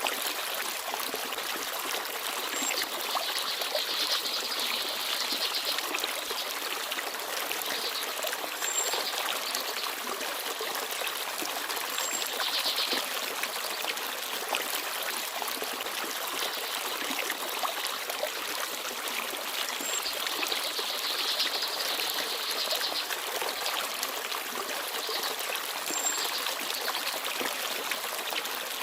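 Small forest stream babbling steadily over rocks. Brief high bird chirps come every few seconds, along with a few short trills.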